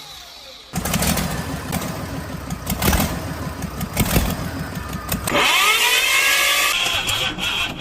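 Diesel engine on a cold start: after a quieter first moment it catches about a second in and runs loud and uneven. Past the midpoint a rising whine takes over and holds.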